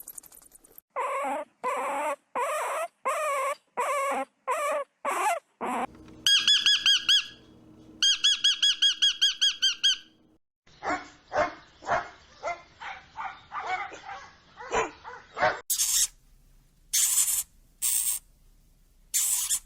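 A run of different animal calls, one after another: a dog barking about ten times at an even pace, then a high, rapidly trilling call, then a series of quicker, shorter calls, and short very high squeaks near the end.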